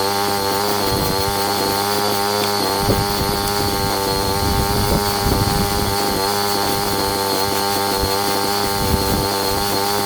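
Petrol engine of a pressure washer running at a steady speed.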